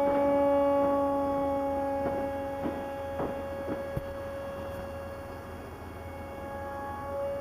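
Steady whine of an RC model airplane's electric motor and propeller in flight, one held pitch with overtones, slowly fading as the plane flies off. A few faint clicks sound about three to four seconds in.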